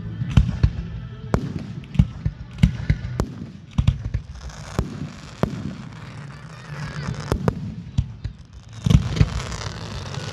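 Aerial fireworks bursting overhead: an irregular run of sharp bangs and pops, several a second, with crackling hiss around the middle and again near the end.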